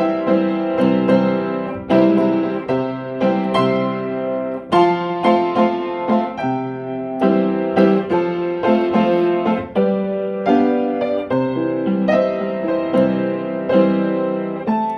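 Solo piano or electric piano music: chords and melody notes struck and left to ring, at an unhurried pace.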